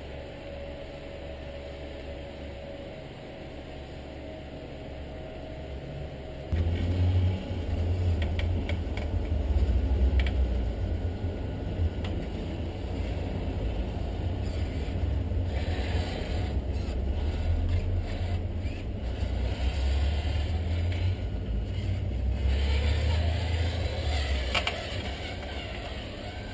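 Radio-controlled 1/14-scale Scania R620 timber truck model running. A low rumble starts abruptly about six seconds in and carries on, with scattered clicks and rattles over it.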